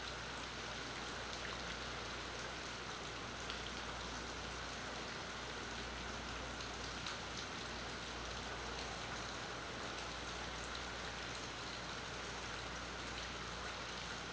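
Steady rain falling, an even hiss with scattered faint drop ticks, over a low steady hum. Picked up by a phone's built-in microphone.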